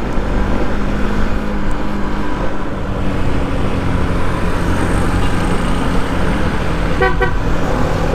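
Steady engine and road noise of a motorcycle being ridden, a low continuous hum. About seven seconds in there is a brief pitched sound lasting well under half a second.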